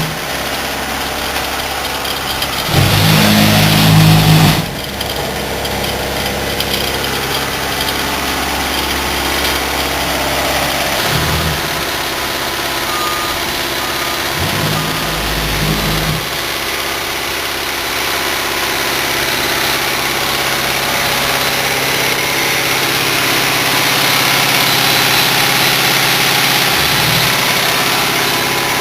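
Cement tanker truck's diesel engine running steadily under heavy road and engine noise, with a few short louder surges of low engine sound.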